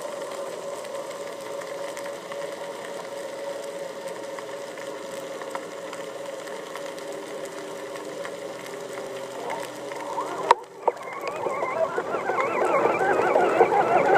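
Underwater recording of a steady motor hum. About ten seconds in comes a sharp knock, then a churning, bubbling water noise that grows louder.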